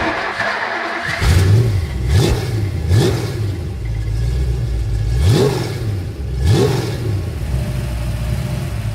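Ford 289 V8 engine running and blipped five times, each blip a quick rise in pitch.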